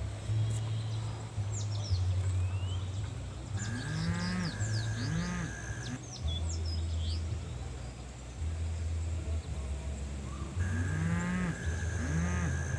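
Cattle mooing in two bouts, about four seconds in and again near the end, with birds chirping over a steady low hum.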